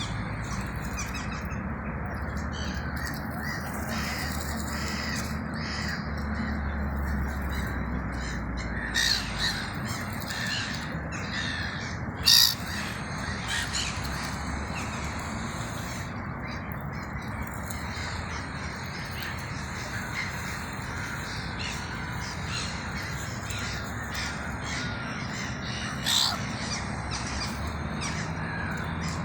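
Crows cawing over a steady background hum, with a few short, sharper, louder sounds about a third of the way in and near the end.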